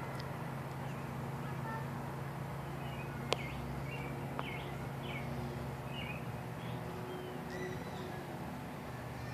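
Birds chirping in short repeated calls over a steady low hum, with a single sharp click about three seconds in.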